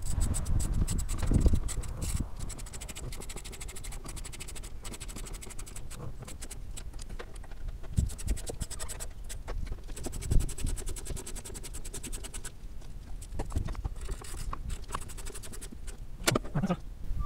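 Scratching and scraping of small parts being handled while a motor is greased for reassembly, with stretches of rapid fine clicking and a few low knocks.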